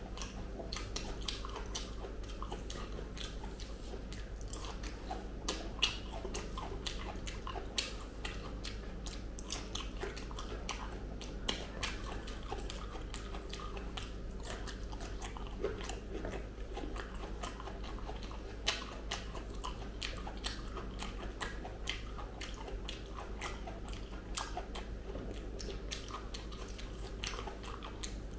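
Close-up mouth sounds of a person biting and chewing soft jackfruit bulbs: a run of small, irregular clicks.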